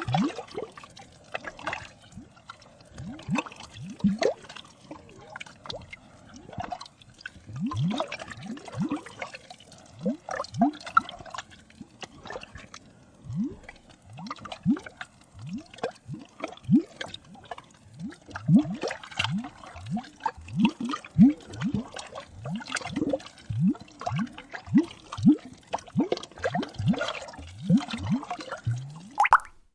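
Liquid bubbling and plopping: an irregular run of short, rising plops, several a second, which cuts off abruptly at the end.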